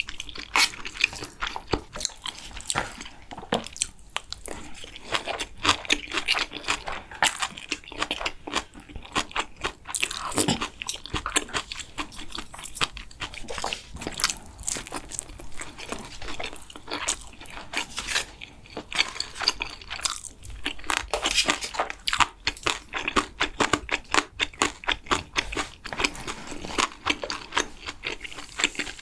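Close-miked chewing and biting of food, a steady run of many short, quick crunches.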